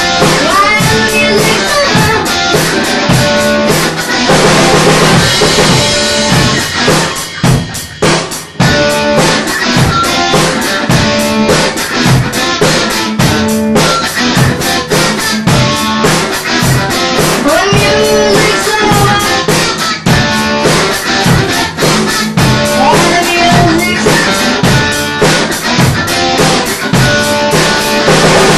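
Alternative rock band playing an instrumental passage: drum kit with bass drum and rimshots under electric guitar. The music drops briefly about eight seconds in, then comes back in full.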